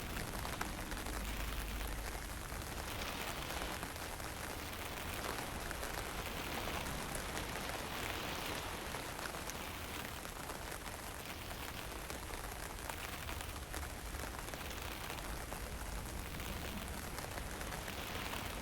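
Steady hiss of fine drizzle falling, with a low rumble of wind on the microphone underneath.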